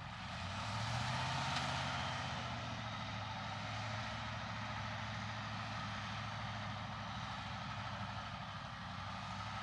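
Heavy diesel earthmoving machinery running steadily, its engine hum joined by a rushing noise higher up. It builds over the first second or so, then holds steady.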